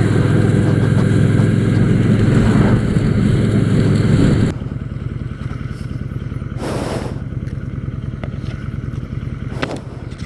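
Kawasaki Vulcan Drifter's V-twin engine running steadily. About four and a half seconds in it suddenly drops to a quieter, lower running. A brief rush of noise comes about seven seconds in.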